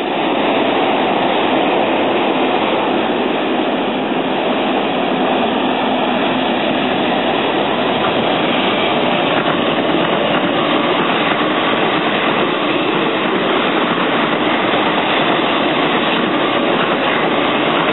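East Rail Line electric train running past on the track, a steady loud rush of wheel and rail noise that doesn't let up.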